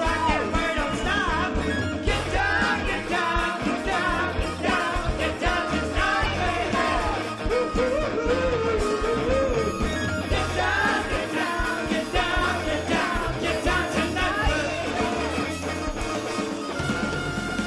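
Rock music with a singer over the band. The singing stops near the end, leaving a long held note.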